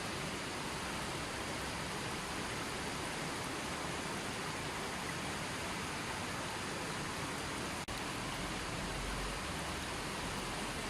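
Running water flowing steadily, an even rushing hiss. There is a momentary dropout about eight seconds in.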